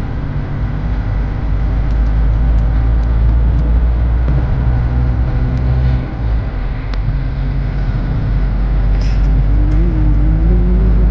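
A motor vehicle running, with a steady low engine and road rumble and a few faint clicks; near the end a pitch wavers and rises slightly.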